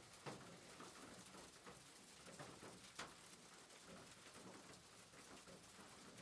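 Faint rain pattering on a rooftop: a steady hiss with many small drop ticks, and two louder drops, one just after the start and one about three seconds in.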